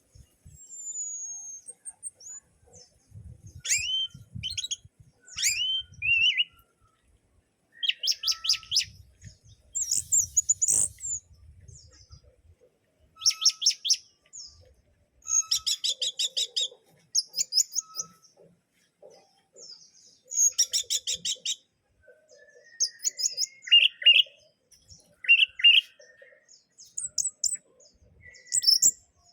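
Orange-headed thrush singing in bouts: clear whistles, downslurred notes and fast rattling trills, one phrase after another with short pauses between.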